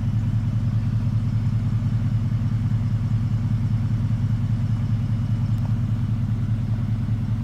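2018 Ford F-150 with an aftermarket Magnaflow 3-inch dual exhaust idling steadily, a low, even exhaust rumble.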